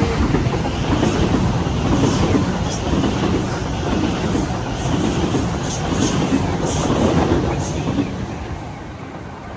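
Electric suburban passenger train moving along the station platform: a loud rumble with repeated wheel clatter over the rail joints, dying away about eight seconds in.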